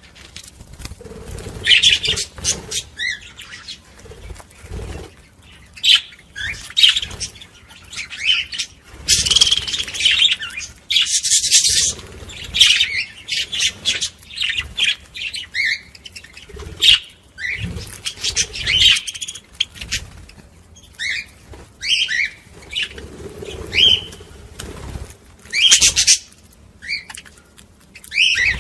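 A group of budgerigars chattering: many short chirps gliding up and down, mixed with harsher, scratchy bursts.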